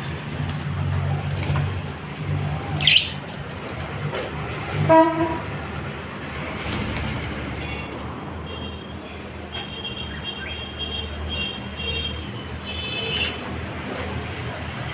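Lovebirds chirping in short high notes, with a louder single chirp about three seconds in and runs of chirps in the second half, over a steady low traffic rumble; a vehicle horn toots briefly about five seconds in.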